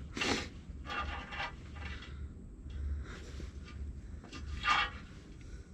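Short scratchy rubbing strokes of a circle being drawn on the truck's sheet metal to mark out a hole for cutting, three or so strokes with gaps between, over a faint low hum.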